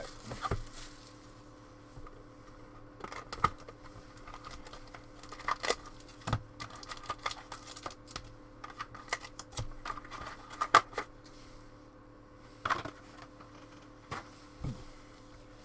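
A sealed box of trading cards being opened and handled: scattered crinkles of wrapper and packs, with sharp clicks and taps of cardboard, irregular and sparse.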